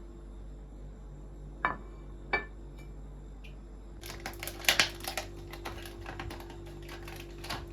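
Two sharp, lightly ringing clinks, then from about halfway a dense run of quick small clicks and rustling, as objects are handled, over a low steady hum.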